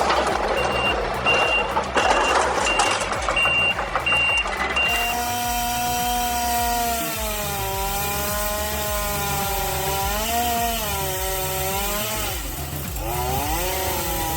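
A heavy machine's reversing alarm beeping about every 0.7 seconds over rough machinery noise for the first five seconds. Then the sound changes abruptly to a motor running steadily, its pitch dipping and rising a few times.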